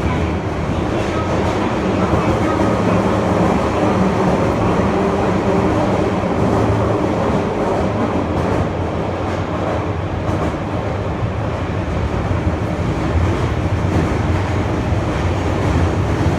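Interior running noise of a Nagoya subway N1000-series train travelling through the tunnel: a steady, loud rumble of wheels on rail, with light rhythmic clatter over the rail joints.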